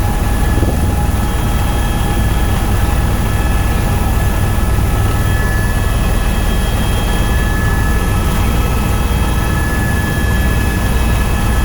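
Tour helicopter in steady flight, heard from the passenger cabin: a loud, unchanging rotor and engine drone with a steady high turbine whine over it.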